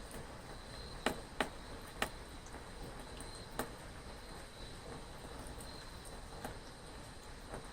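Steady rain hiss with a few louder drops ticking close by, four sharp ones in the first four seconds. A faint, high-pitched insect chirping pulses on and off beneath it.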